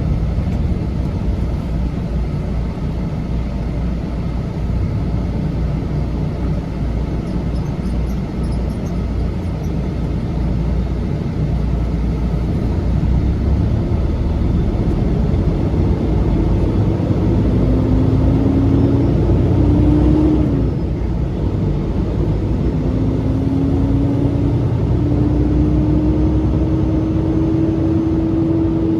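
Semi truck's diesel engine running under way with a steady low rumble. Its pitch climbs, drops sharply at a gear change about two-thirds of the way through, then climbs again as the truck pulls through the next gear.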